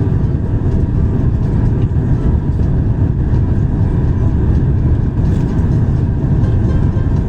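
Steady cabin noise of an Airbus A350-1000 on approach: a constant low rumble of engines and airflow with a lighter hiss, heard inside the passenger cabin.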